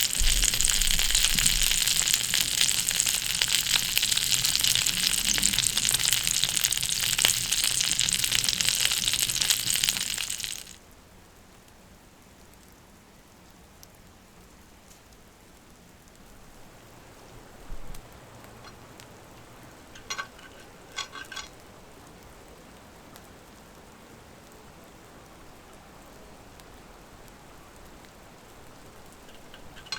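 Food sizzling and frying in a pan, a loud, even crackling hiss for about ten seconds that cuts off suddenly. After that only a quiet background remains, with a few faint short sounds.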